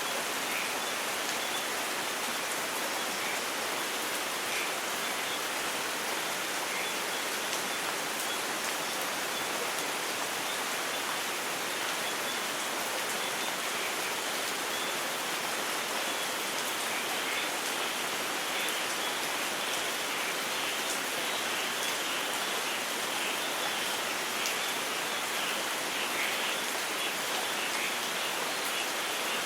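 Steady, even rain falling and pattering on surfaces, with no thunder.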